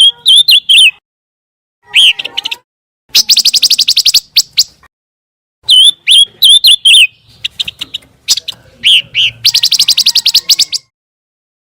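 Recorded song of a pancawarna songbird, in phrases broken by short pauses. Bursts of rapid, high trills about a second long alternate with quick, hooked whistled notes.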